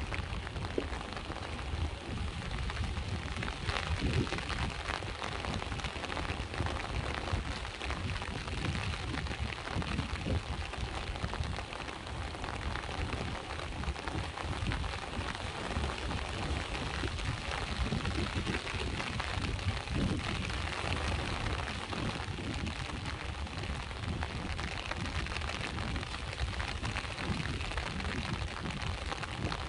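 Steady rain falling, with many separate drop hits, over a continuous low rumble of sea waves.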